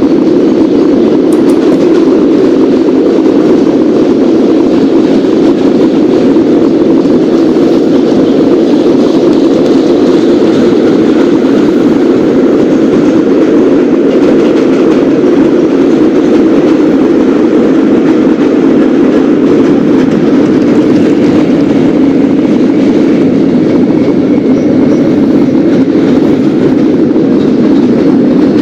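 Subway garbage train running along the track: a steady, loud rumble with no breaks.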